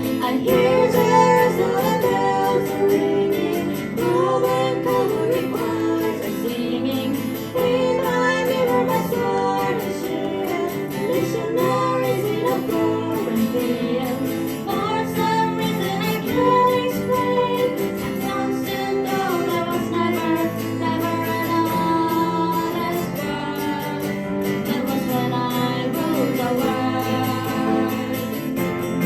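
Live band performance of a pop song: singing over strummed acoustic guitar and piano chords.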